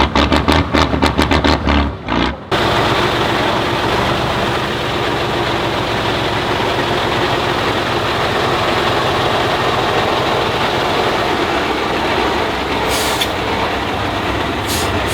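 Heavy off-road trial truck's diesel engine working hard, a steady loud drone, after a fast pulsing rattle in the first two seconds or so. Two short hisses of air brakes come near the end.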